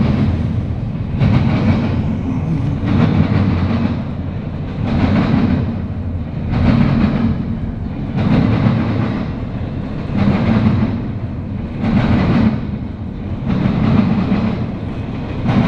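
CSX eastbound intermodal freight train rolling past, its wheels and railcars rumbling and clacking on the rails. The loudness swells in a regular rhythm roughly every two seconds as each car's wheel sets go by.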